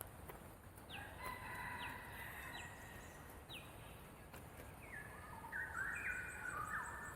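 Birds calling: short high notes that sweep down in pitch, repeated about once a second, and longer held calls that step down in pitch, loudest between about five and seven seconds in.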